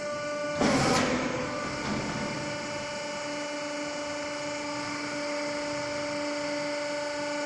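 Garbage truck machinery running with a steady high whine, with a brief rush of noise about a second in.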